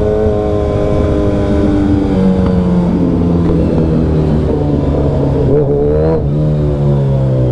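Suzuki Hayabusa inline-four running through a Brock's Performance Alien Head aftermarket exhaust, loud, at riding speed. Its pitch sinks slowly, with a few sudden steps and a short rise about six seconds in.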